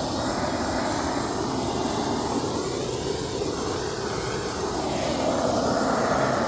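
Handheld gas torch flame blowing steadily against a wooden board as it chars the surface, with a slow shifting tone as the flame moves.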